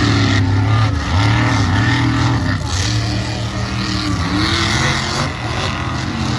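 Monster truck engines, supercharged V8s, revving hard in a head-to-head race, their pitch repeatedly dropping and climbing again as the throttle is worked.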